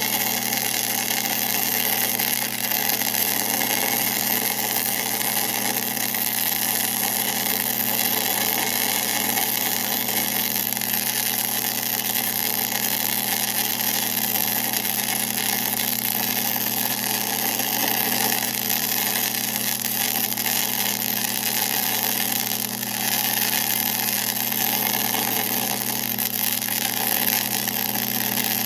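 1966 LeBlond geared-head metal lathe running steadily: an even machine hum with steady whining tones from the gearbox.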